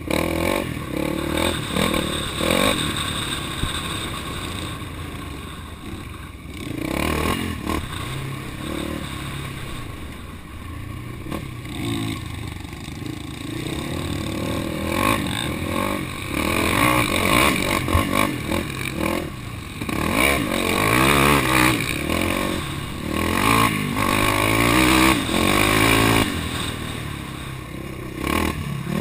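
Off-road vehicle engine on a trail ride, revving up and down over and over as the throttle is worked, with its pitch repeatedly rising and falling and louder stretches in the second half.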